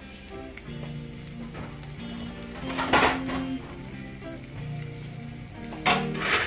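Hamburger patties sizzling as they fry in an oiled nonstick frying pan, with two brief louder spurts of sizzle, about halfway through and near the end.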